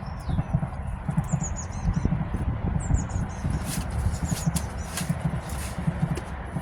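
Irregular low thumping and rumbling close to the microphone, with small birds chirping in short bursts.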